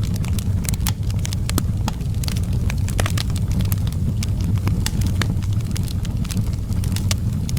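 Wood fire burning with a steady low rumble and many irregular sharp crackles and pops.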